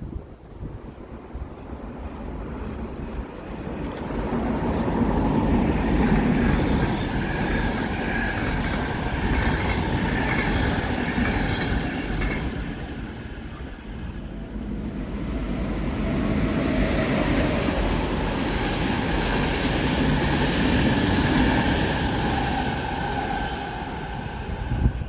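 Passenger train running past on the rails, a loud rumble of wheels with steady high tones over it. It swells twice, easing about halfway, and cuts off abruptly at the end.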